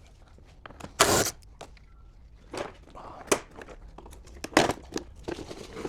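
Irregular crinkling, rustling and sharp clicks from a car's wiring loom being handled and moved in the engine bay, with the loudest rustle about a second in.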